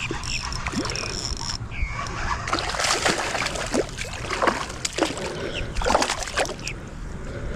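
Water splashing and sloshing around a kayak, a run of several sharp splashes from about two and a half seconds in to near the end.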